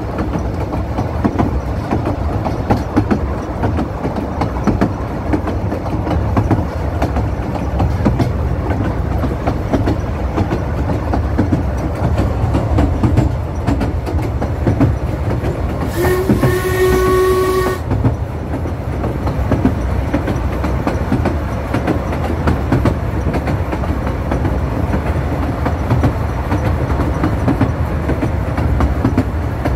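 Ffestiniog Railway narrow-gauge train running steadily along the line. A little past halfway its whistle sounds once, a single steady note held for about two seconds.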